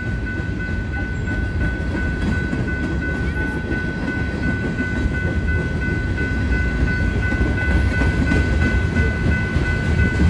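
Union Pacific freight train rolling through a grade crossing: a steady low rumble of wagons and wheels on the rails, with a steady high-pitched tone over it and the rumble growing a little louder toward the end.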